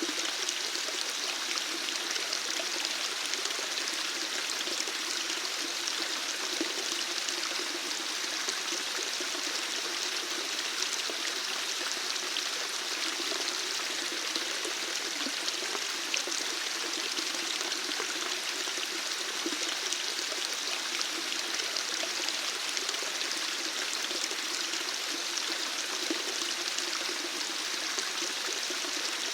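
Water running steadily: an even, unbroken rush and splash that does not change.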